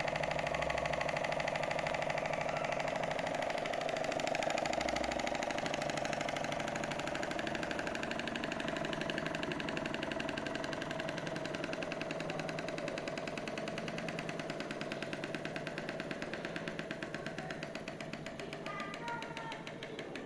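Small model Stirling engine running, a fast, even mechanical clatter with a steady whine, gradually getting quieter.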